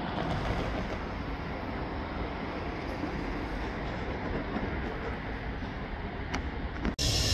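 Train running on the line: a steady low rumbling and rolling noise, with one sharp click about six seconds in. Just before the end it cuts off abruptly to a louder, steady hiss like escaping steam.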